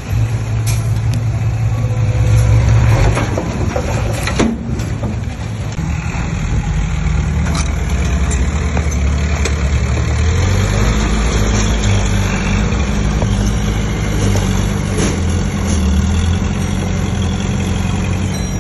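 Heavy diesel engines of earthmoving machinery running steadily, with a few sharp metallic knocks, the strongest about four and a half seconds in.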